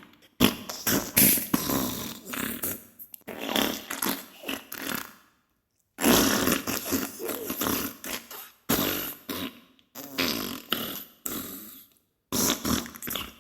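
Diarrhea sound effect: a string of irregular fart bursts, broken by a short silent gap about five seconds in and another near the end.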